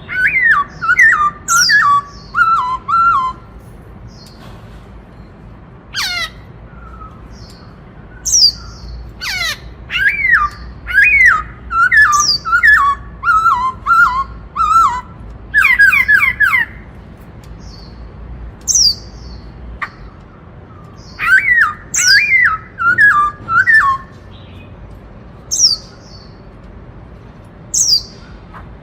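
Black-throated laughingthrush singing loud phrases of quick whistled notes that slide downward, broken by pauses of a few seconds between phrase groups, in the song type known as 'bắt cô trói cột'.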